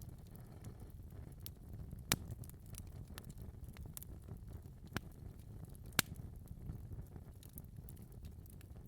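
Wood fire crackling in a fireplace: irregular sharp pops and snaps over a low steady rush of the flames, with the loudest pops about two seconds and six seconds in.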